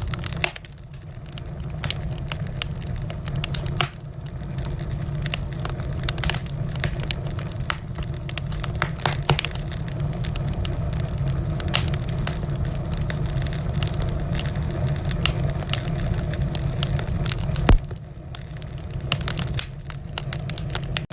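Wood fire crackling in a fireplace: frequent sharp pops and snaps over a steady low rumble of the flames, with one loud pop near the end.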